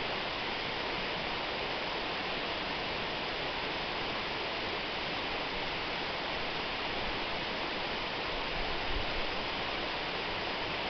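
Waterfall: water falling in a steady, even rush of noise, with a brief low swell about nine seconds in.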